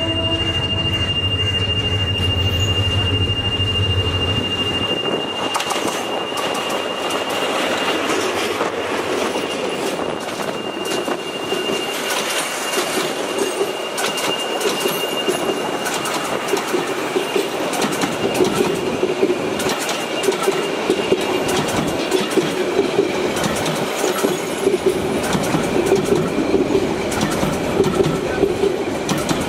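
A diesel-hauled intercity passenger train passes close by. The locomotive's engine rumbles for the first few seconds, then the coaches roll past with wheels clicking over the rail joints and a thin, steady wheel squeal that fades about halfway through.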